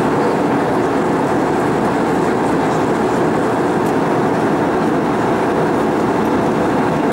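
Steady drone of airflow and the IAE V2500 engines heard inside the cabin of an Airbus A320-232 in cruise, an even noise with no change in pitch or level.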